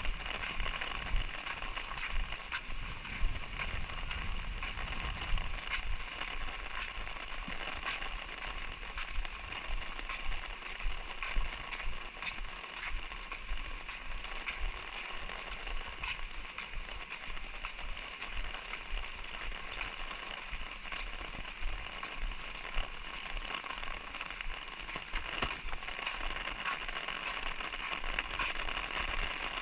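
Light drizzle falling: a steady hiss of rain with many small, irregular ticks of drops striking surfaces.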